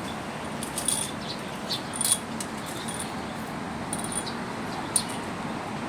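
Small birds giving short, high chirps about once a second over steady outdoor background noise.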